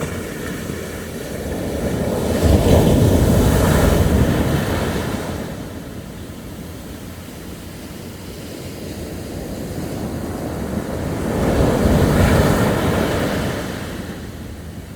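Sea waves breaking on the shore: two waves rush in and wash back, the first peaking about three seconds in and the second about twelve seconds in, with a steady surf rumble between them.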